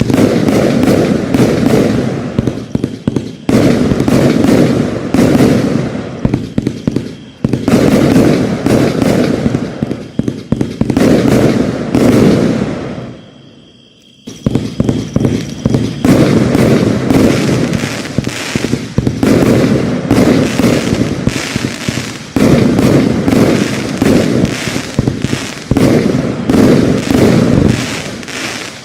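X-Cite 'Milky Way' firework going off: rapid volleys of bangs and crackle that come in waves every few seconds, with a brief lull about halfway through.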